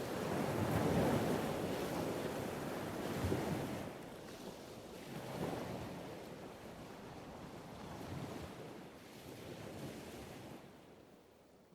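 Wind rushing over the camera's microphone on a moving motorcycle, a steady noise that fades gradually away.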